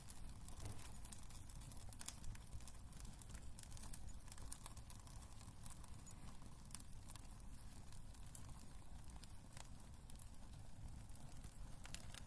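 Wood fire burning in a fireplace: a low steady rumble of flames with frequent small, sharp crackles and pops at irregular intervals.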